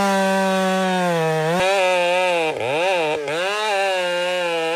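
Husqvarna two-stroke chainsaw running at high revs, its engine note steady at first, then dipping and picking back up several times in the second half.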